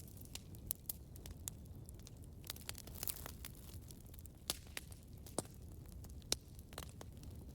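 Campfire burning with a low steady rumble and irregular sharp crackles and pops from the wood.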